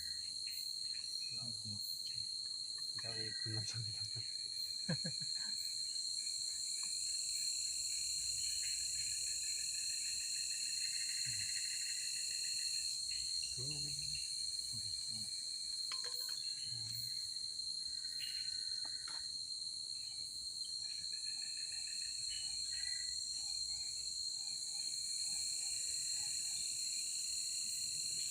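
Night insects chirring steadily, a constant high-pitched drone with a wider hiss above it and other calls coming and going, with a few faint knocks underneath.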